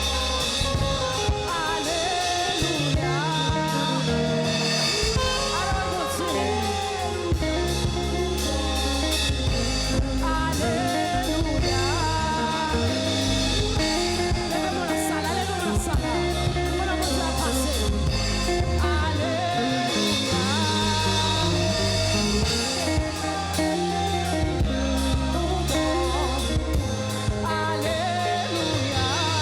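Live worship music: a band with bass, guitar and drum kit accompanying singing.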